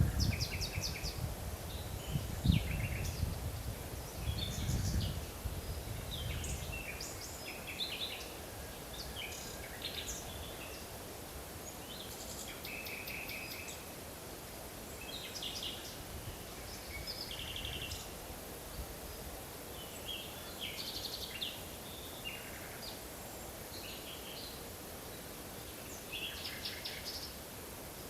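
Forest birds calling and singing: many short chirps and trills, some overlapping, over a steady background hiss. A low rumble sits under them for the first several seconds, then fades.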